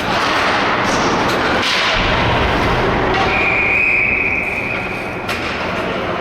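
Ice hockey play: skates scraping on the ice and sticks and puck knocking, with a whistle blown as one steady high note for about two seconds in the middle.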